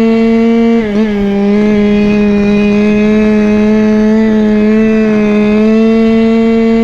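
Go-Ped scooter's CY26RC 26 cc two-stroke single-cylinder engine running loud at steady high revs, with a brief dip in revs about a second in before it settles back to an even pitch.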